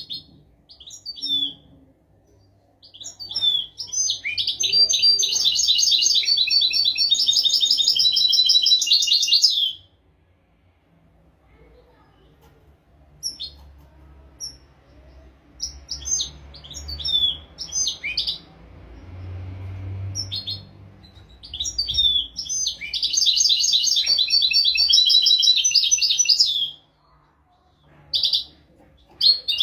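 European goldfinch singing a 'royal'-style tutor song: two long phrases of fast, high twittering notes, one early and one late, with short single chirps between them.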